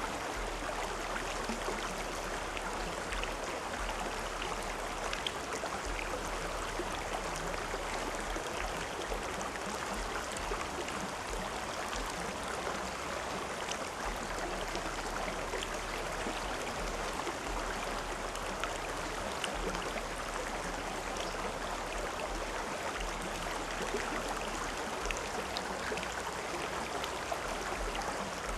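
River water flowing steadily, a continuous rushing with small splashes and trickles.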